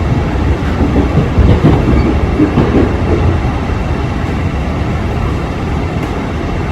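Passenger train in motion, heard from on board: a loud, continuous rumble of wheels running on the rails, with some clatter over the track.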